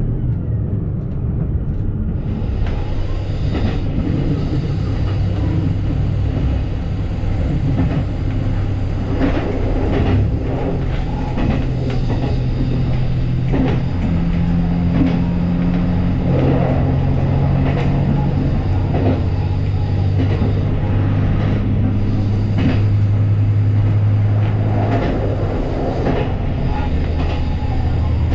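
JR Shikoku 2700 series diesel railcar running along the line. Its engine drones steadily, shifting pitch a few times, and the wheels click over rail joints at uneven intervals.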